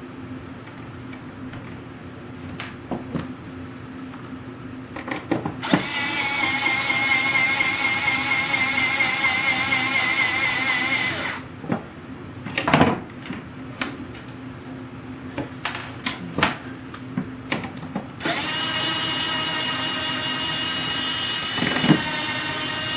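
Small cordless drill running in two bursts of about five seconds each with a steady whine, driving a screw. Light clicks and knocks of hardware being handled come before and between the bursts.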